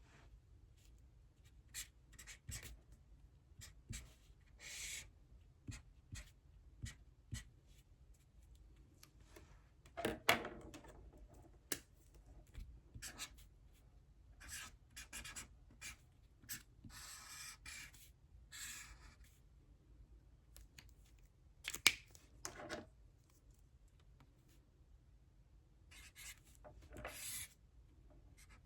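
Handwriting on paper: short scratchy pen strokes in irregular bursts with small pauses between. Two sharper knocks stand out, one about a third of the way in and one about three quarters through.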